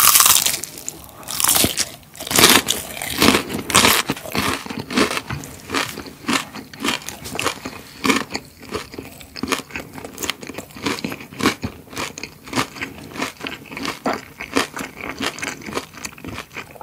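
A loud crunching bite into cornflake-crusted fried chicken (60 Gye tiger chicken), right at the microphone. A second loud crunch comes about two and a half seconds in, then steady crunchy chewing, several crunches a second.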